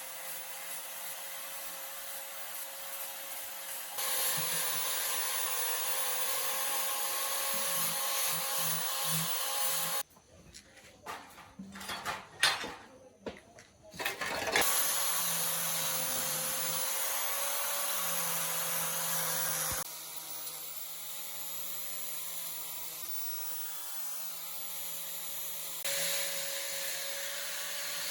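A small power tool runs steadily with a faint steady whine, in several stretches that change abruptly. In the middle it stops for a few seconds, leaving scattered clicks and knocks of handling.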